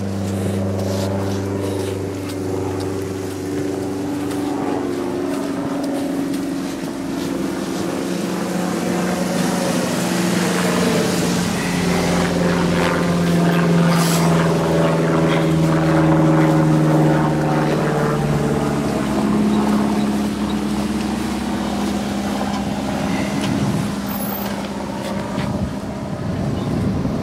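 A car engine running at low speed, its drone slowly rising and falling in pitch.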